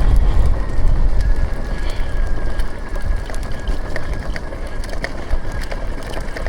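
Electric dirt bike riding through mud: heavy wind rumble on the microphone, a faint steady motor whine from about a second in, and scattered clicks.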